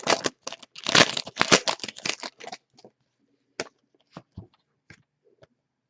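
Trading cards and their packaging being handled, with crinkling and crackling for the first couple of seconds, then a few scattered sharp clicks.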